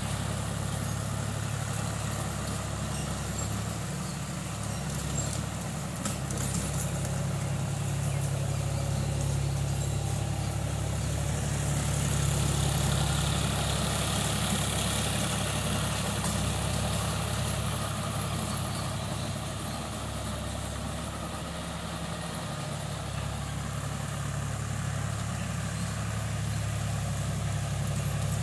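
Tractor engine running steadily, growing a little louder for a few seconds around the middle before easing back.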